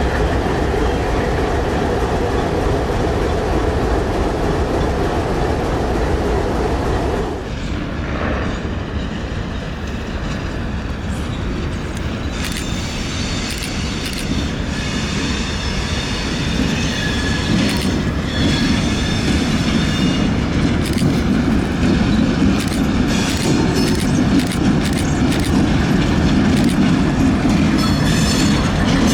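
Diesel locomotives and rail equipment moving slowly on the track with a steady rumble. The sound changes abruptly about seven seconds in; from about twelve seconds on, high, shrill wheel-flange squeals come and go repeatedly over a rumble that grows louder.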